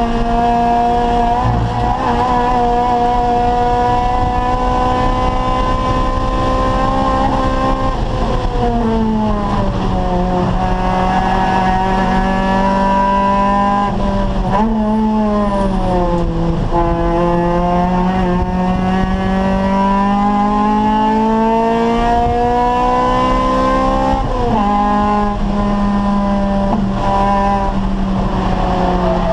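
Acura Integra race car's four-cylinder VTEC engine running hard at high revs. The note climbs steadily between three sharp drops (about 8 s in, about 15 s in with a quick blip, and about 24 s in), each drop a lift and downshift for a corner.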